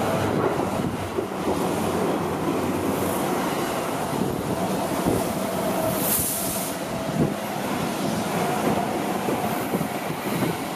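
Seibu 9000-series electric train running past at close range, a steady rush of wheels on rail and running gear, with a brief high hiss about six seconds in.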